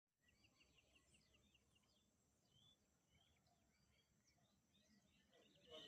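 Faint chirping and twittering of a white-bellied seedeater (chorão): a quick run of short high notes in the first second and a half, then scattered chirps, with a louder burst near the end. A faint steady high whine sits underneath.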